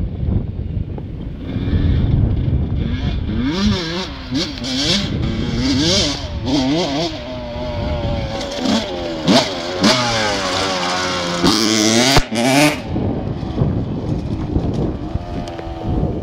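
Motocross bike engine revving, its pitch climbing and dropping again and again as the throttle is worked, from about four seconds in to about thirteen seconds, with a low rumble before and after.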